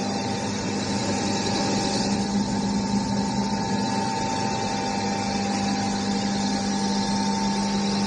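Floating feed pellet extruder machine running with a steady mechanical hum.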